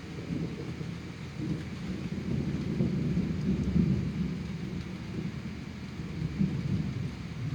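Thunder rumbling, swelling to its loudest about three to four seconds in, then easing off with a couple of smaller rolls near the end.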